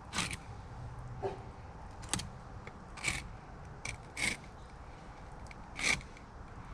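Fillet knife cutting along the hard scales and skin of an alligator gar, a series of short scraping strokes at uneven gaps.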